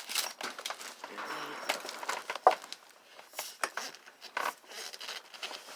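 Scattered clicks and knocks from tugging by hand at a part of an old, rusty microwave that won't come loose, with one sharper knock about two and a half seconds in.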